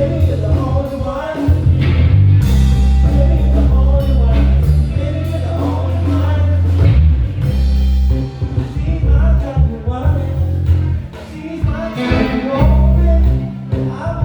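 Live band playing: a deep bass line and drum kit under keyboard chords and a bending lead melody line. The music dips briefly about eleven seconds in, then comes back full.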